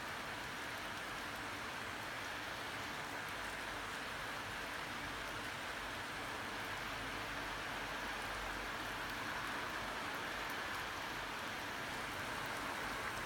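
Heavy rain falling steadily in a thunderstorm, an even hiss that neither swells nor breaks.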